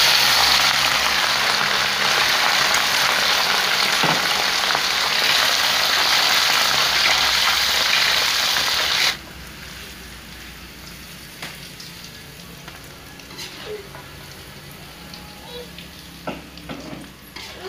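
Beef liver cubes frying in hot oil in a wok: a loud sizzle for about nine seconds, then it drops suddenly to a quieter sizzle with a few light clicks.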